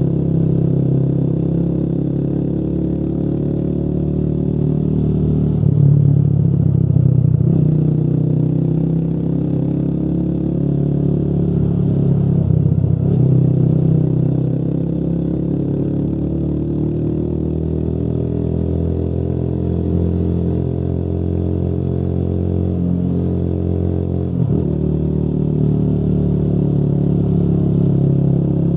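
Motorcycle engine running under way, its note rising and falling with the throttle and dropping briefly three times, as at gear changes.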